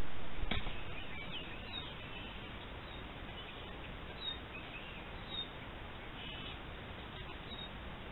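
Faint, short bird chirps scattered over the steady hiss of a trail camera's microphone, with a click about half a second in.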